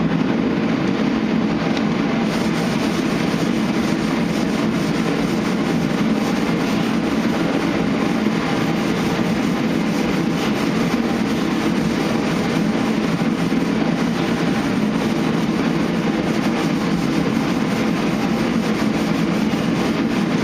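Dual-action (DA) sander running steadily with 320-grit paper over primer on a truck body panel.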